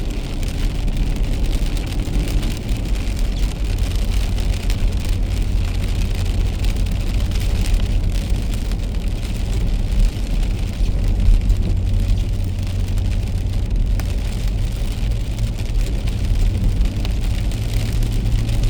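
A car driving in the rain, heard from inside the cabin: a steady low rumble of engine and tyres under an even hiss of rain and wet road.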